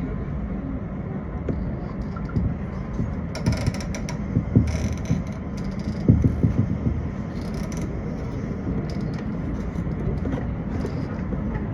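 Interior of a JR West 227 series electric train under way: a steady low rumble, with a cluster of knocks and clatter between about three and a half and seven seconds in.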